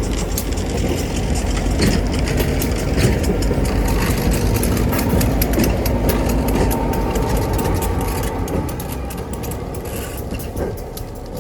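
An engine runs steadily with a low rumble and scattered clicks, then eases off about eight seconds in.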